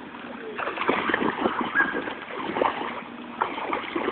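A child's feet splashing in a rain puddle: a quick, irregular run of splashes that starts about half a second in.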